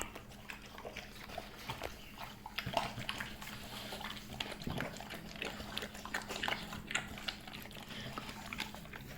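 A dog eating fast from a bowl: a steady run of irregular wet chewing, smacking and crunching of dry kibble.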